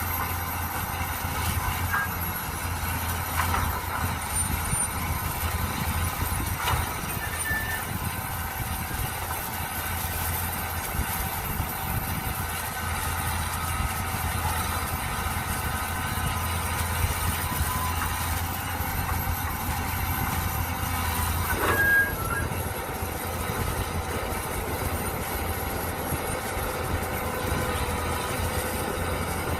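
Mini excavator engine running steadily while it digs, with a few sharp clanks, the loudest about two-thirds of the way through.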